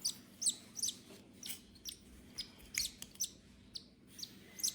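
Newly hatched budgerigar chick cheeping while being spoon-fed formula: short, high, falling begging peeps, about two a second.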